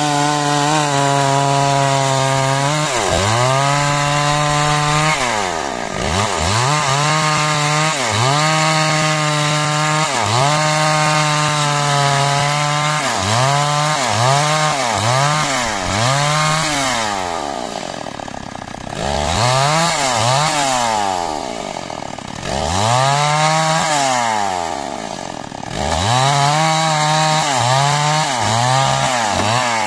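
Petrol chainsaw cutting timber, its engine held at high revs with the pitch repeatedly sagging and climbing back as the throttle is eased and opened. In the second half it drops well down three times before revving up again.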